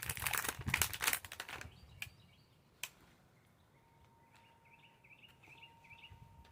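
Crackling rustle of hands working a herb plant and its soil and pot for about a second and a half, then two sharp clicks. Later a bird chirps repeatedly in the background.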